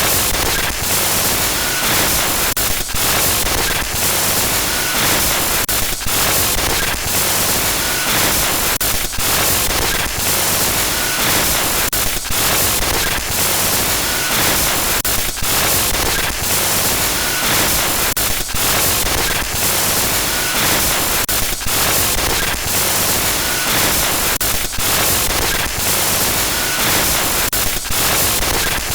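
Harsh glitch-noise sound effect: loud, continuous static across the whole range, broken by frequent brief stutters and dropouts, with a faint high blip now and then.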